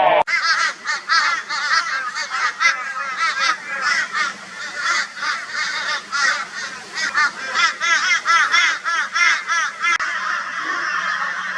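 A flock of crows calling loudly and raucously, with many short, harsh, arched caws overlapping in quick succession: mobbing calls at a barn owl. About ten seconds in the calls blur into a denser chorus.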